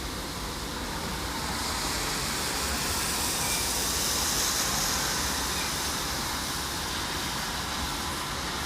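Steady rushing background noise with no distinct events, swelling slightly around the middle and easing off again.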